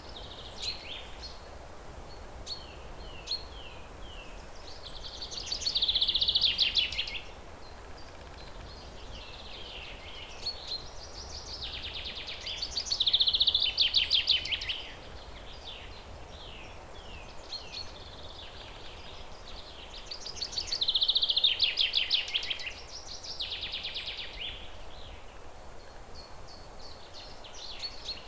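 A songbird singing the same phrase again and again, about every seven or eight seconds: a few short falling notes that run into a loud, fast trill. A steady outdoor background hiss sits under it.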